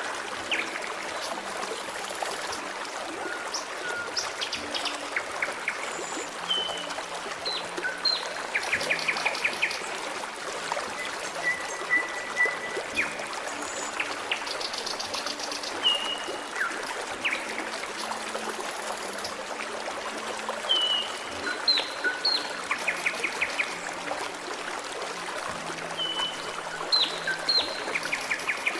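Forest stream trickling and babbling steadily, with small birds singing over it: short whistled notes, gliding chirps and quick trills that come again every few seconds.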